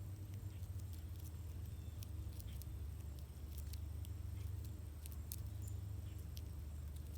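Outdoor ambience: a steady low rumble with scattered faint, short high-pitched clicks and chirps.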